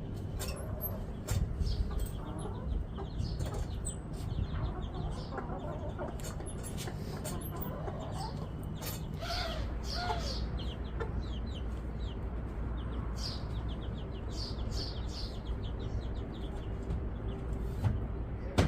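Chickens clucking, with high chirps of small birds and scattered short clicks throughout.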